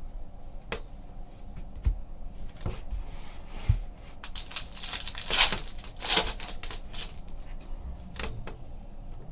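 Trading cards being handled on a table: scattered light taps and clicks, with a louder rustle of cards sliding against each other in the middle.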